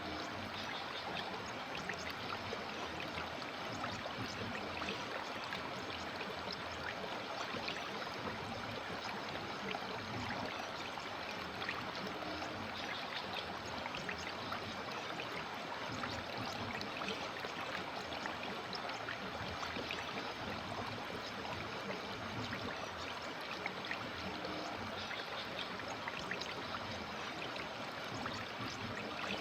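River water flowing and babbling steadily over stones, with small splashes throughout.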